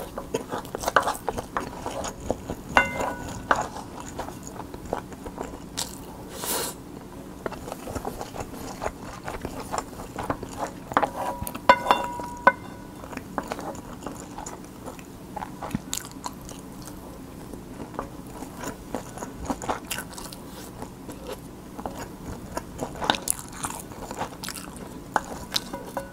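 Close-miked chewing of kimchi fried rice, with many small wet clicks and crackles. A wooden spoon scrapes across the bowl to gather the last grains, squeaking briefly about three seconds in and again around eleven to twelve seconds in.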